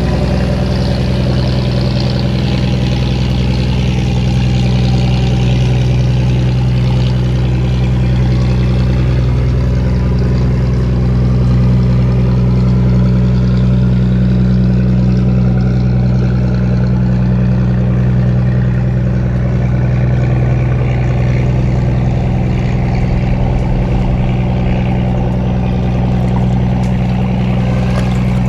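Boat engine running at a steady pace.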